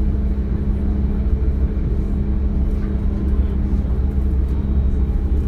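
Interior running noise of a DB Class 425 electric multiple unit: a steady low rumble with a constant hum held at one pitch, unchanging throughout.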